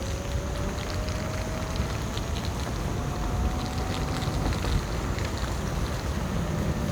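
Ninebot F2 electric scooter riding: wind rush on the microphone and tyre rumble, with a thin motor whine rising slowly in pitch that cuts off about four and a half seconds in, and scattered small ticks.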